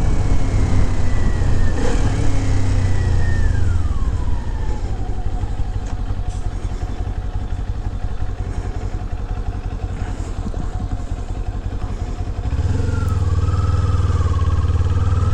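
2021 Kawasaki Z400's parallel-twin engine winding down, its pitch falling over the first few seconds as the bike slows, then running low and steady. About twelve seconds in it gets louder and rises in pitch as the bike makes a smooth takeoff.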